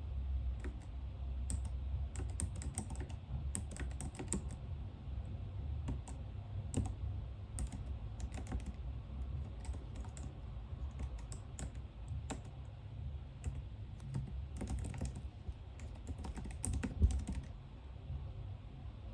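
Typing on a computer keyboard in irregular bursts of key clicks over a steady low hum, with one louder knock near the end.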